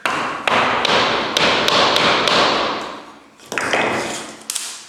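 Parquet boards being knocked into place with hammer blows on a tapping block: a quick run of sharp knocks, a short pause, then a few more near the end.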